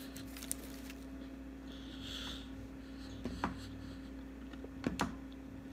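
Quiet mouth sounds of someone chewing fried fish with her mouth closed: a few soft clicks and smacks over a steady low hum.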